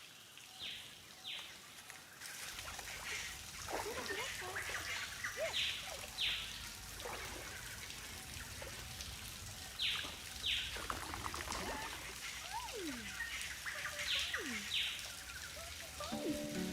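Creek water trickling steadily while a bird repeats a pair of short, falling calls about every four seconds, with a few fainter, lower calls between.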